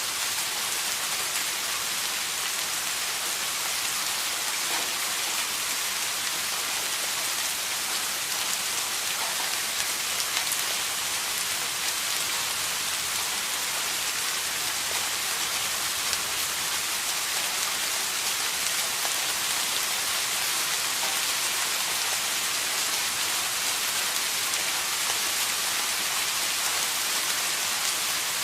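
Steady rain falling, an even hiss with many fine drop ticks and no thunder.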